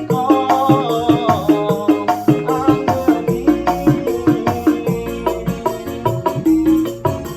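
Dangdut koplo-style instrumental music played on an arranger keyboard: a melody over a steady, evenly repeating percussion beat.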